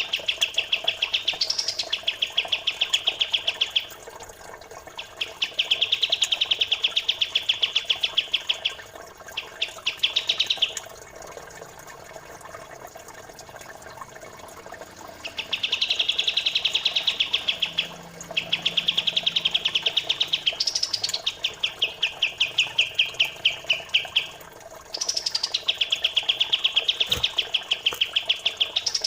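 Songbird song-tutor recording: runs of quick, evenly repeated chirps lasting a few seconds each, broken by short pauses, over a faint trickle of flowing water.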